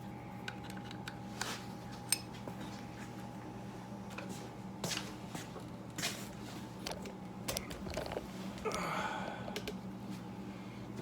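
Scattered light clicks and taps of hand tools and small parts being handled, with a brief scrape or rustle near the end, over a steady low hum.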